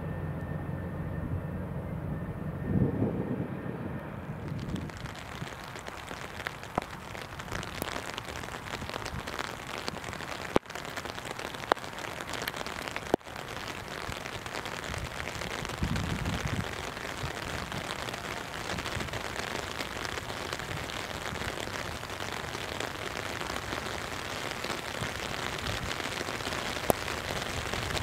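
For the first few seconds a jet airliner's engines hum steadily with a thin whine. Then steady rain hisses, with a few sharp taps of drops, the loudest of them twice close together near the middle and once near the end.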